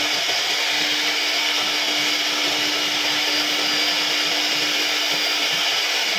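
CNC router spindle running steadily as it cuts wood: a continuous high hiss over a constant hum.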